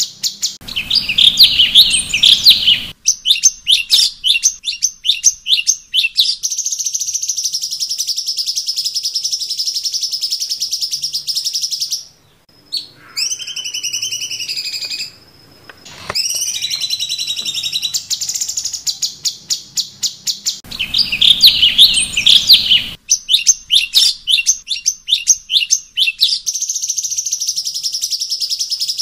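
Cucak cungkok songbird singing loud, high rapid trills and chattering phrases. About halfway through comes a brief passage of sliding whistled notes, and then the trills return.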